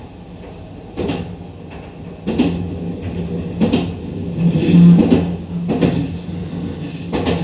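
Kintetsu 23000 series Iseshima Liner train running on the line, its wheels knocking over rail joints about once a second at irregular spacing, over a steady low hum.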